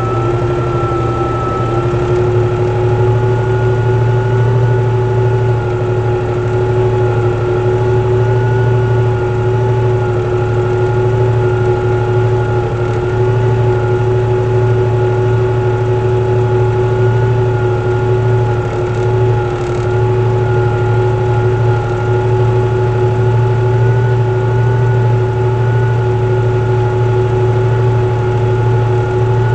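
Tractor engine running steadily as it pulls a four-furrow plough, a deep drone with a steady whine above it.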